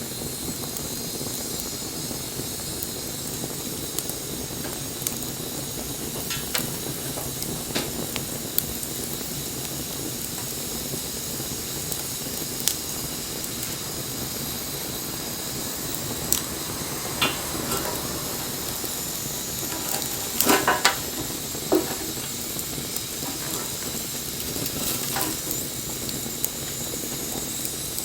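Wood fire burning: a steady hiss with scattered crackles, and a quick run of loud pops about twenty seconds in.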